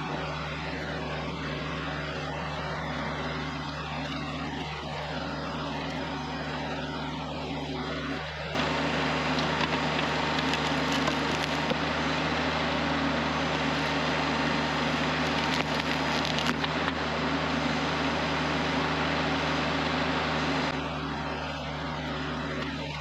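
Kioti CS2520S subcompact tractor's three-cylinder diesel engine running steadily. About a third of the way in it abruptly gets louder, with a broad rushing noise on top, for about twelve seconds, then drops back to the earlier level.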